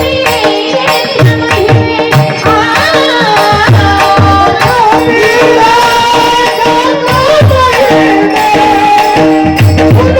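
Marathi devotional song: a woman's voice sings a melodic line from about two and a half seconds in until around eight seconds in. Underneath, a hand drum plays a steady rhythm of bass strokes that slide down in pitch, over a held drone-like accompaniment.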